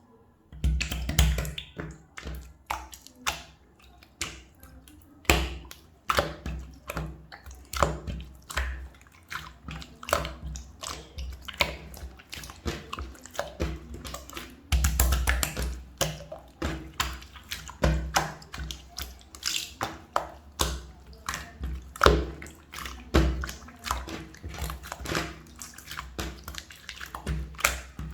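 Clear slime being squished and pressed by hand, giving a fast, irregular run of wet clicks and small pops as air pockets burst.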